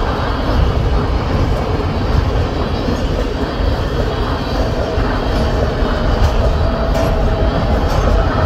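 A freight unit train's three-bay covered hopper cars rolling past: a steady rumble of steel wheels on rail, with a faint thin whine from about halfway through.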